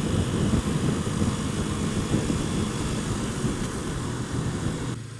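Wind buffeting the helmet microphone over a motorcycle engine running while riding along. The noise drops noticeably about five seconds in, leaving a steadier low hum.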